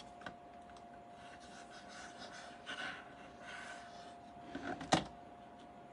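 Soft rustling and scraping of paper and card being handled, with one sharp click about five seconds in. A faint steady hum runs underneath.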